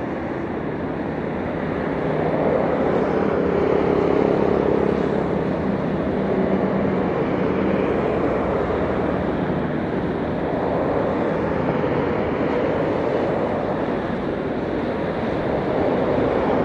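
Airbus A321's twin IAE V2500 turbofans on a landing approach: steady jet engine noise with a faint whine, swelling slightly a few seconds in.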